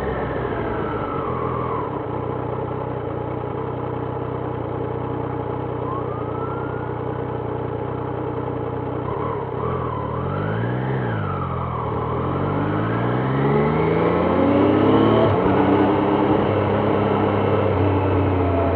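Triumph Trident 660's inline three-cylinder engine, heard from the rider's seat. It runs steadily, rises and falls in pitch quickly about ten seconds in, then climbs in pitch and gets louder as the bike accelerates before settling into a steady run.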